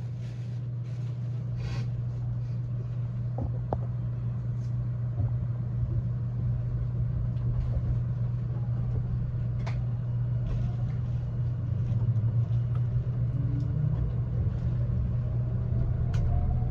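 Steady low running rumble inside the passenger cabin of a Nankai Rapi:t limited express train, with a few short clicks. Near the end a whine rises in pitch.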